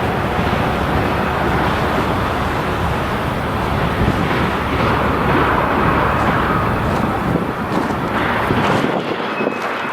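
Freight train rolling past: a loud, steady rumble and rattle of wheels on rail, with the low rumble easing off near the end.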